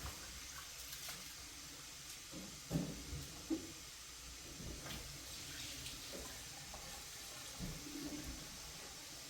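Faint running water, with two short knocks a little under three and a half seconds in.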